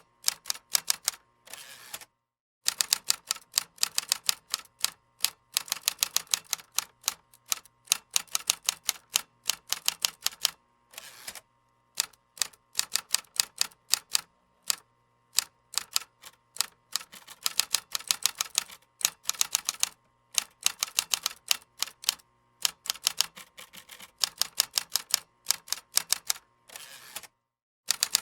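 Computer keyboard typing: fast runs of keystrokes, several a second, broken by short pauses and a few brief dead-silent gaps.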